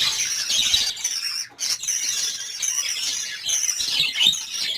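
Caged lovebirds chirping continuously in high-pitched, overlapping calls, with a brief pause about a second and a half in.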